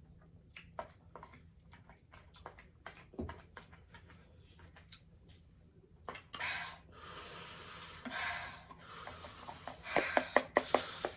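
A person breathing hard through the mouth against the burn of very spicy noodles: faint mouth clicks at first, then long hissing breaths from about six seconds in, turning to quick panting near the end.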